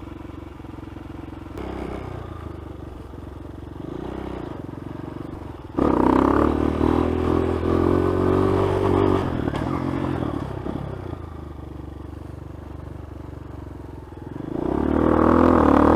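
Dirt bike engine running at low revs, then revved hard for about four seconds starting about six seconds in, easing back off, and climbing in revs again near the end.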